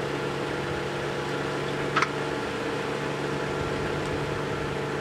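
Ford car's engine idling steadily, with one light click about two seconds in.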